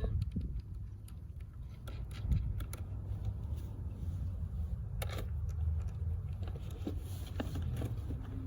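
Wind rumbling on the microphone, with scattered small metallic clicks and taps as a washer and axle nut are fitted by hand onto a skateboard truck axle.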